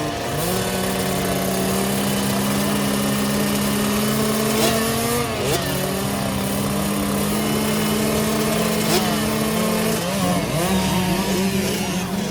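Dirt bike engines running steadily, their pitch shifting a little about five and again about ten seconds in.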